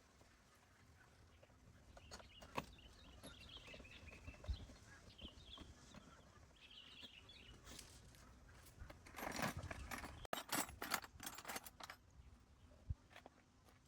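Faint bird chirping with scattered clicks and knocks, and a louder stretch of clattering from about nine to twelve seconds in.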